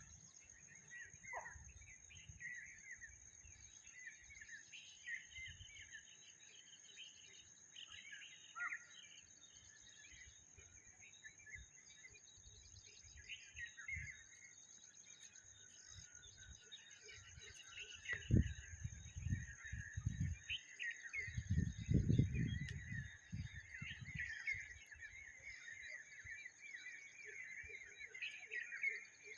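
Many small birds chirping and twittering over one another in a morning chorus, over a steady high-pitched whine. About two-thirds through, a few seconds of low rumbling thumps are the loudest sound.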